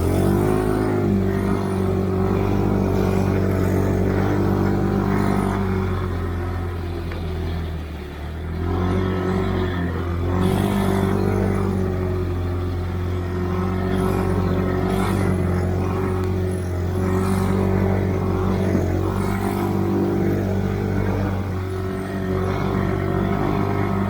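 Stalker snowmobile engine running under throttle while riding, its pitch wavering slightly, easing off briefly about eight seconds in and then picking up again.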